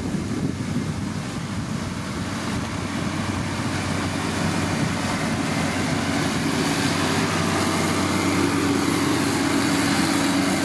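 Motor grader's diesel engine running steadily while working gravel, growing a little louder toward the end.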